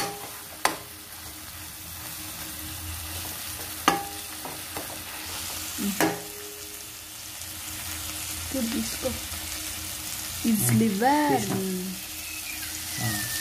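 Chicken liver sizzling as it fries in oil in a nonstick kadai, stirred with a steel ladle that knocks against the pan three times. A person's short pitched vocal sound rises and falls near the end.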